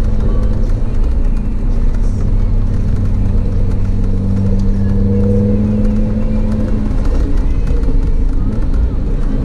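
Audi TT RS's turbocharged five-cylinder engine running at steady revs uphill, a constant drone over wet-road tyre noise; the drone eases off about seven seconds in.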